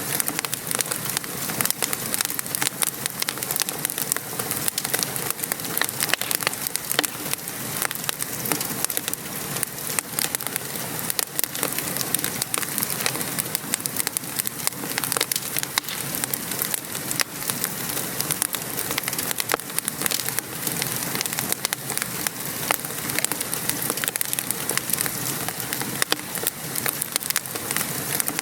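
Steady patter of rain, with a wood fire crackling through it in many small, irregular pops.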